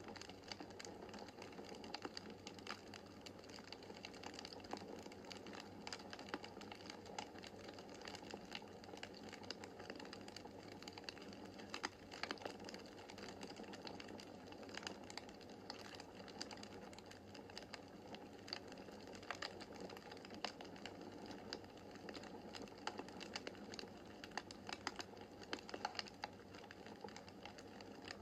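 Wood fire in a fireplace crackling: a steady low hiss of the flames with many small irregular pops and snaps.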